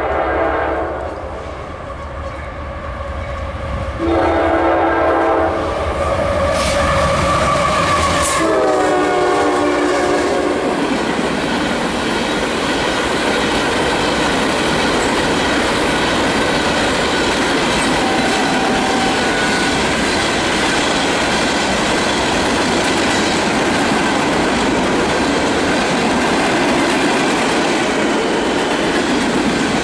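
CSX ballast train's locomotive horn blowing in short blasts, the last one dropping in pitch as the locomotive passes about nine seconds in. The train then rolls by steadily, its ballast cars' wheels clattering on the rails.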